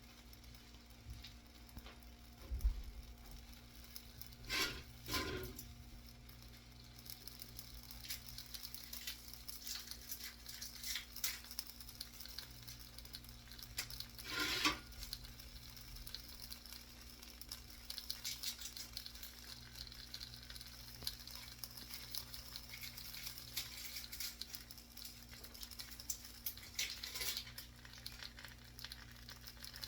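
Food frying in a pan with a steady sizzle that gets fuller about seven seconds in. A few louder rustling noises break through about four seconds in, midway and near the end.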